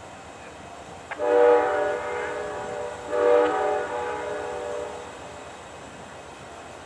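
Diesel locomotive's multi-chime air horn sounding two long blasts, the second starting right after the first ends.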